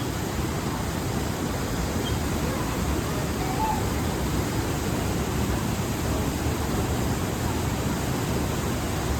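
Steady, even rushing noise with no breaks, spread from deep to high pitches.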